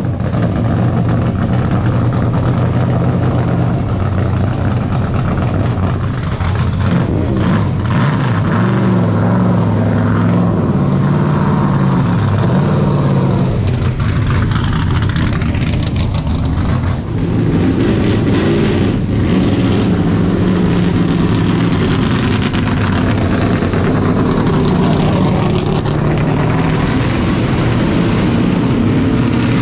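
V8 engines of NASCAR stock cars running loud and revving, their pitch stepping up and down several times as the cars go by.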